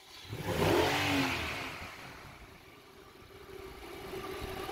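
Nissan car engine revving briefly about half a second in, then settling back to a steady idle with a steady hum. It is running with a newly replaced variable valve timing solenoid.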